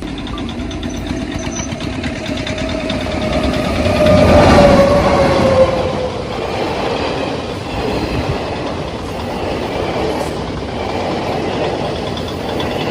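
A train passing close by: a continuous rumble that builds to its loudest about four to five seconds in, with a tone that slides down in pitch as it goes past, then settles to a steadier rumble.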